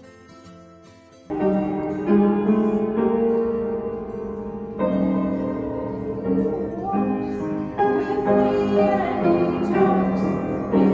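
Piano music with a group of women singing. Quiet, thin keyboard music gives way suddenly, about a second in, to louder piano and voices.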